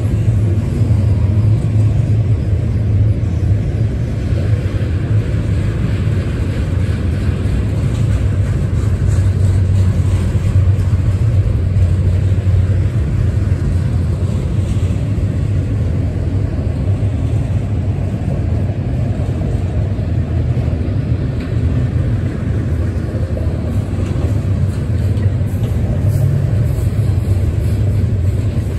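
Double-stack intermodal freight train's loaded container well cars rolling past close by: a loud, steady rumble of steel wheels on rail.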